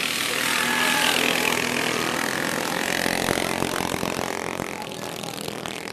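Several small single-cylinder minibike engines running at racing speed as the bikes pass, pitches rising and falling; the sound eases off a little near the end.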